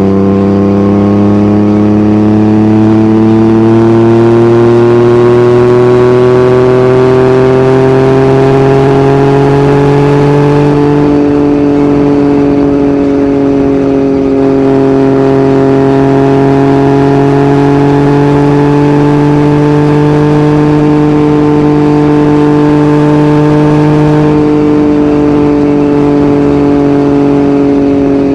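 Yamaha MT-09's inline three-cylinder engine through an Akrapovic exhaust, under way with its pitch climbing slowly for about the first ten seconds as it pulls, then holding a nearly steady pitch at cruise with two slight easings of the throttle.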